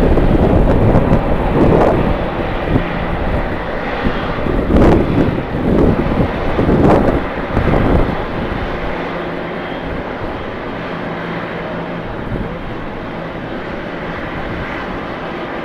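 Jet airliner engines running at the airport, with gusty wind buffeting the microphone for about the first eight seconds; after that the sound settles into a steadier, slightly quieter hum.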